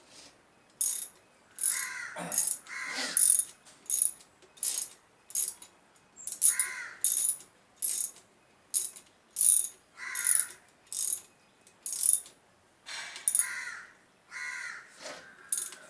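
Ratchet wrench being worked in short strokes, a sharp clicking burst roughly every half second to second. Crows caw a few times in the background.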